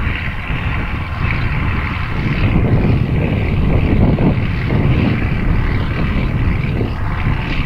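John Deere 4450 tractor's diesel engine running steadily while working with the planter, a loud, even drone with a lot of low rumble.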